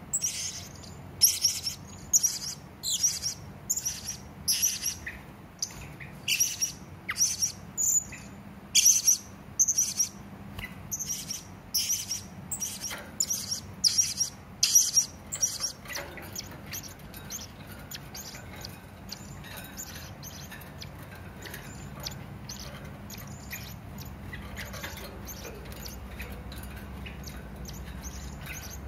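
Hanging parrot (serindit) giving sharp, high-pitched calls about twice a second. The calls fade to fainter, quicker calls about halfway through.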